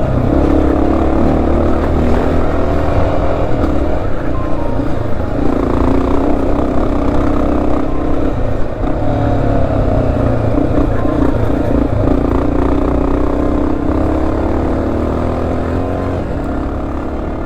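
Dual-sport motorcycle engine running while riding a trail, its revs rising and falling as the rider works the throttle.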